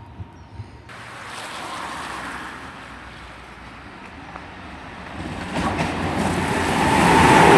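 A CrossCountry Class 220 Voyager diesel-electric train approaching through the station at speed. Its rushing noise comes in suddenly about a second in and grows steadily louder, with a steady whine joining near the end as it draws close.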